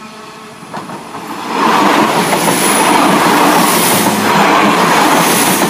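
West Midlands Railway Class 172 Turbostar diesel multiple unit 172342 passing at close range. The rush of wheels on rail and engine noise builds sharply about a second and a half in, then stays loud.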